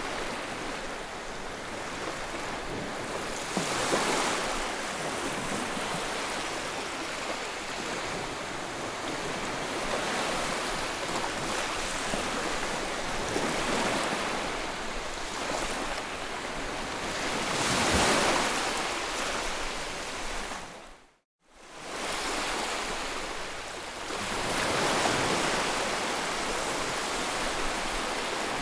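Ocean surf: a steady wash of waves breaking on a shore, swelling as each wave comes in every several seconds. The sound cuts out to silence for a moment about three-quarters of the way through.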